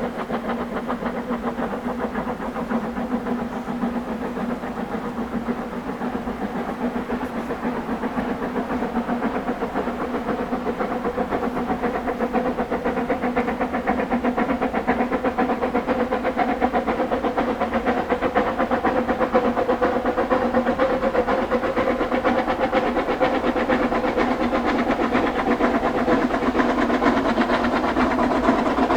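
Narrow-gauge steam train running with a rapid, even pulsing beat, slowly getting louder as it draws nearer.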